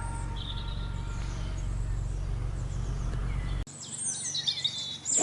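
Outdoor ambience of small birds chirping over a low steady rumble. The rumble stops abruptly about three and a half seconds in, at an edit, and the birdsong is clearer and busier after it.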